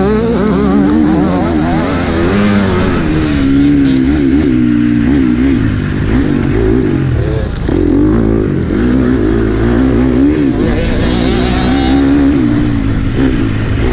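Motocross bike engine under hard riding, its revs climbing and dropping again and again as the throttle is worked through the track.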